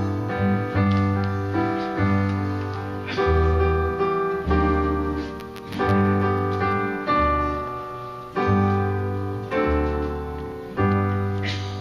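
Piano playing a slow piece in full chords, each chord struck about once a second and left to fade.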